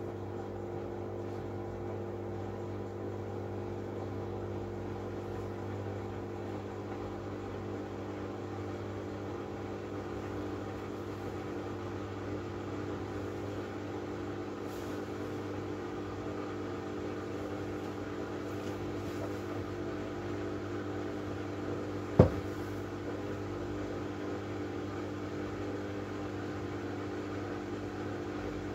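Miele W433S washing machine running, its motor giving a steady hum. A single sharp click or knock comes about three quarters of the way through.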